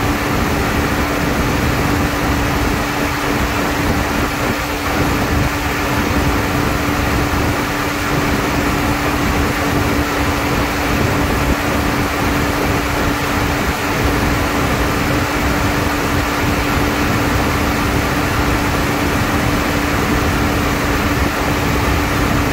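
Car engine idling steadily with the AC compressor clutch engaged, the compressor turned by the accessory belt; a constant hum over an even mechanical running noise, with no change.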